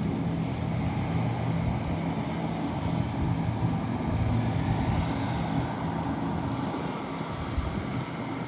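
Sportfishing boat's engines running at speed, a steady low drone over the rush of wind and water.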